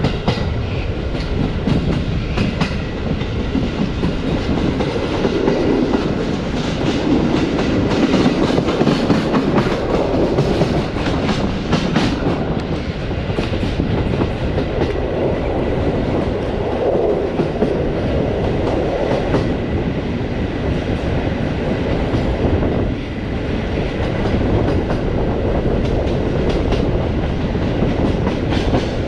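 Passenger train coach running along the line, heard at the coach window: a steady rumble of wheels on rail with frequent irregular clacks and knocks from the wheels over rail joints and track.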